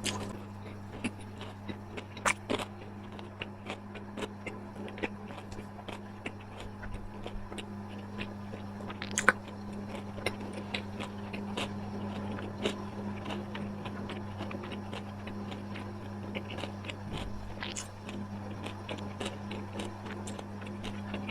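A person chewing and biting food close to the microphone: a run of small wet clicks and crunches, with sharper crunches about two seconds and nine seconds in. A steady low hum runs underneath.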